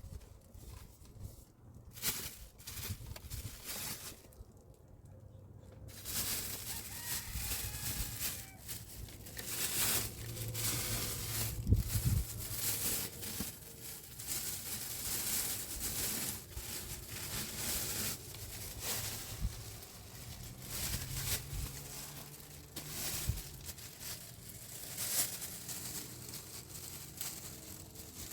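A plastic bag crinkling and rustling as it is handled, with tearing sounds; sparse at first, then busier and more continuous from about six seconds in.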